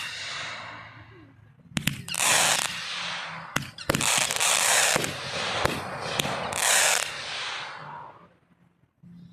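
Aerial fireworks going off: several sharp bangs, each followed by a short burst of hiss and crackle, the last dying away near the end.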